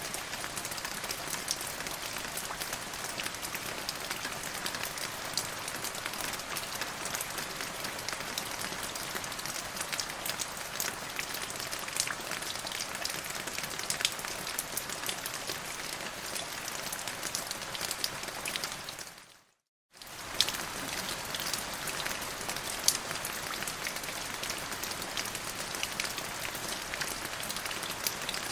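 Steady rain falling, with sharp individual drops ticking through the hiss. About two-thirds through it fades to silence for under a second, then comes back abruptly.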